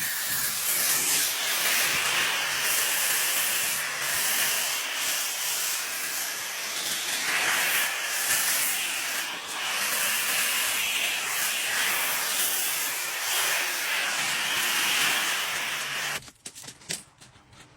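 High-pressure water spray hissing steadily against a car's body, cutting off near the end with a few short sputters.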